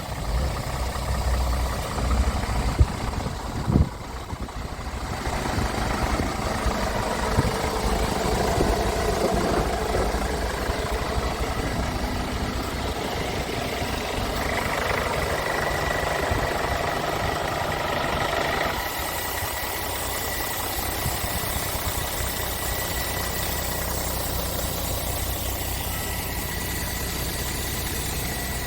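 Scania R500 tractor unit's 13-litre inline-six diesel idling steadily. Two sharp knocks come about three and four seconds in.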